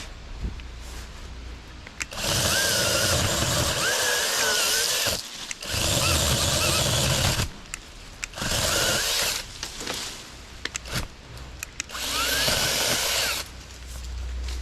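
Saker 20-volt cordless mini chainsaw run in four bursts while cutting wood, its electric motor whine wavering and sagging in pitch under load. The saw bogs down a little, which the owner thinks might be a battery that was not fully charged despite showing three bars.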